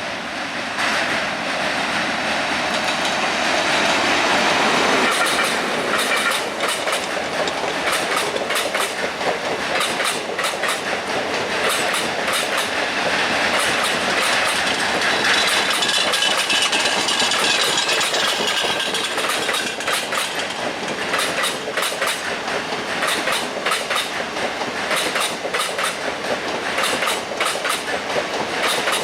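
Indian Railways passenger train passing close by, its wheels clattering over rail joints in a fast rhythm. The sound builds over the first few seconds as the train arrives, then runs on steadily.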